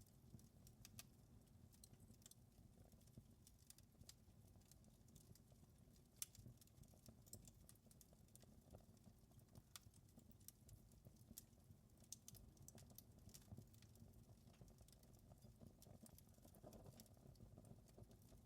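Wood fire crackling faintly, with irregular small pops and snaps over a low steady rumble of flames; one sharper pop about six seconds in.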